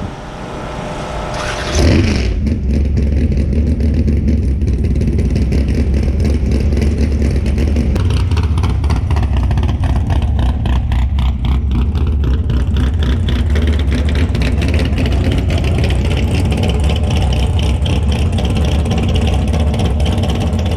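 A vehicle engine running loudly and steadily, with a heavy low rumble, that comes in abruptly about two seconds in.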